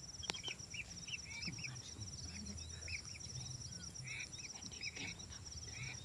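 Faint birds calling in short, arched whistled notes, in irregular clusters of two or three, over a steady fast insect trill.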